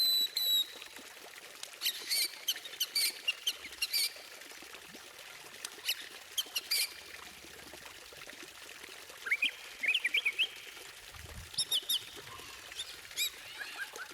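White-rumped shama (murai batu) singing: a clear whistle at the start, then rapid strings of sharp chip notes, later rising phrases and fast trills, over a steady background hiss.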